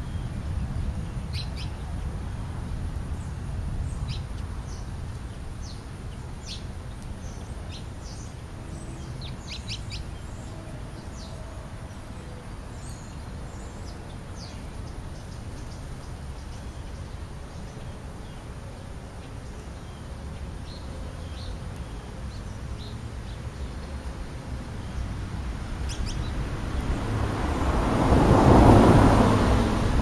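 Small birds chirping in short, scattered calls over a low steady rumble. Near the end a broad rush of noise swells up and fades.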